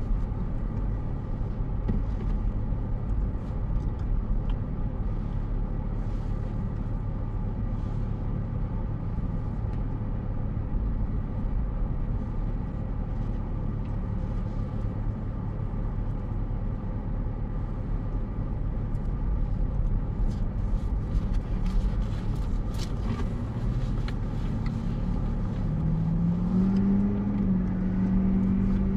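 Car engine and road hum heard from inside the cabin, a steady low drone while idling in a line of traffic. Near the end a pitched whine rises and then holds steady.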